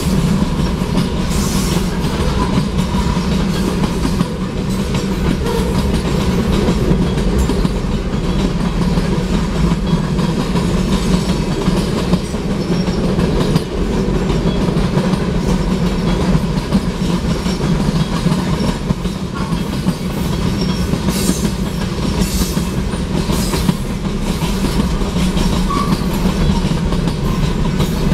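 Freight train tank cars rolling past: a steady rumble and rattle of steel wheels on the rails, with a few sharp clicks near the end.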